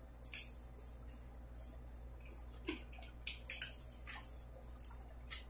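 Faint, scattered eating sounds of people chewing soft donuts: a few short wet clicks and squishes spread irregularly over a few seconds.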